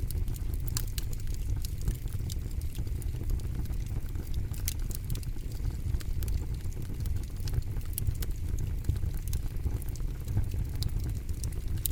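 Campfire burning steadily: a low rumble of flames with frequent sharp, irregular crackles and pops from the burning wood.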